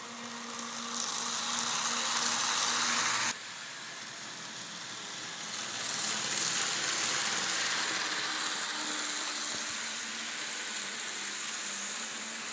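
N scale model train running along the track: a steady whirring hiss of its small motor and wheels. It cuts off abruptly about three seconds in, then picks up again and grows louder toward the middle.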